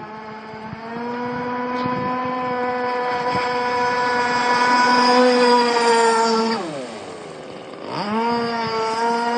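Radio-controlled model boat's motor running flat out with a steady whine. About six and a half seconds in, the pitch drops as the throttle is let off, then climbs back up a second and a half later as it powers on again.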